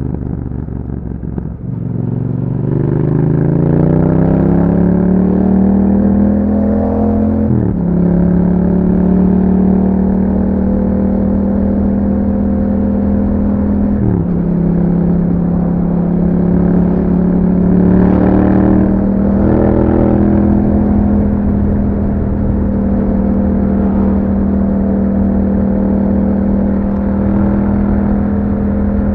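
2021 Yamaha MT-07's parallel-twin engine through an Akrapovic exhaust, under way. The revs dip briefly, then climb steadily for several seconds. The pitch drops suddenly at two upshifts, then the engine holds a steady cruising note.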